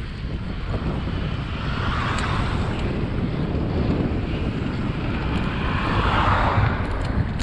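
Wind buffeting a microphone on a moving bicycle: a steady, loud rumble with a broad hiss that swells twice, about two seconds in and again about six seconds in.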